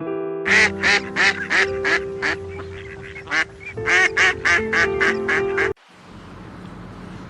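A fast series of short animal calls, about three a second, over background music with sustained notes. Both cut off abruptly near the end, leaving a quiet hiss.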